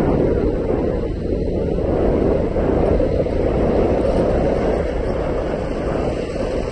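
Motorcycle underway: a steady, loud rush of wind over the microphone mixed with engine and road noise.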